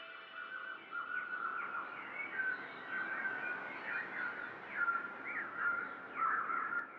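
Birds chirping and calling: many short, quick calls overlapping, growing louder in the second half.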